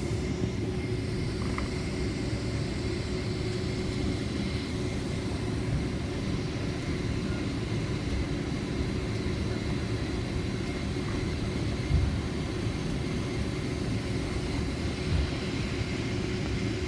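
Steady low rumble inside the cabin of a Boeing 767-400ER with its engines running on the ground, a few steady whining tones held through it. Two brief thumps come about twelve and fifteen seconds in.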